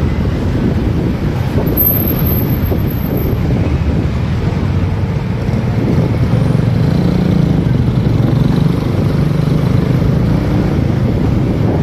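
Motorcycle engine running on the road under steady wind rush on the microphone. The engine hum grows stronger past the middle, and a thin high whistle is heard briefly about two seconds in.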